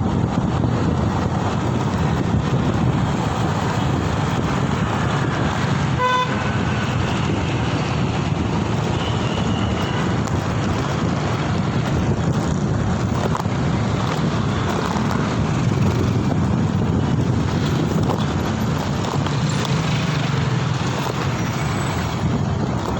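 Wind buffeting the microphone and road traffic noise during a ride through city streets, with one short vehicle horn toot about six seconds in.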